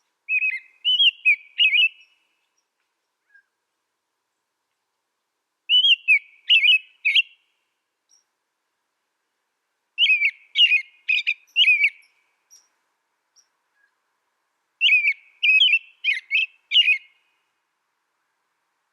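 A small songbird singing in four short bursts of quick, high, sliding notes, with pauses of a few seconds between the bursts.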